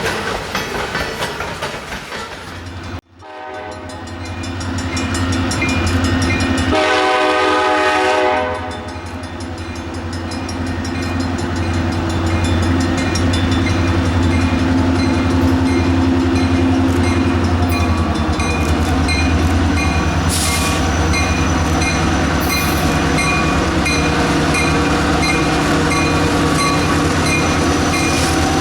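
Diesel freight train running past, with a steady low locomotive engine drone and wheel rumble. The air horn blows one chord for about a second and a half about seven seconds in. A bell rings repeatedly through the later part.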